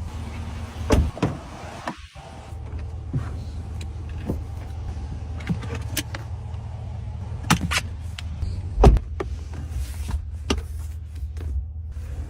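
Pickup truck's steady low running hum, with scattered clicks and knocks throughout.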